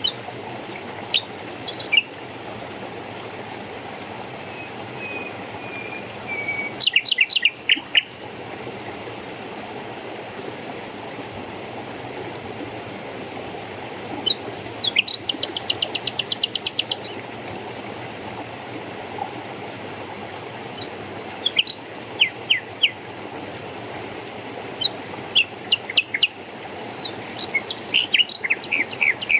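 Small songbirds chirping in short phrases of quick high notes several times, with a fast even trill about halfway through, over a steady rush of flowing water.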